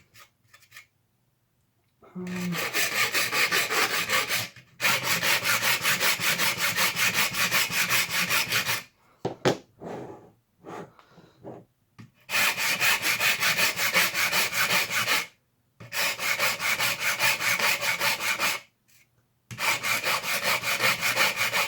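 Hand file rasping across a plastic part held in a vise, filing it down flush. It comes in several bouts of rapid strokes with short pauses between them.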